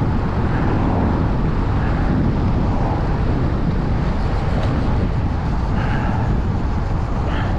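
Steady low rumble of road and wind noise on the microphone while riding along a road.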